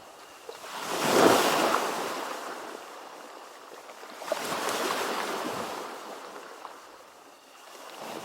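Ocean waves breaking on a shore, two surges swelling and washing back, about a second in and again after four seconds, with a smaller one building near the end.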